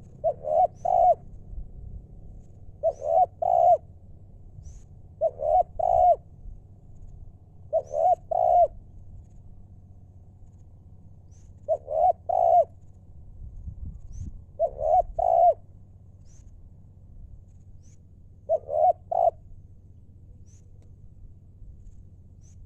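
Spotted dove cooing: seven phrases of two or three low coos each, repeated about every three seconds.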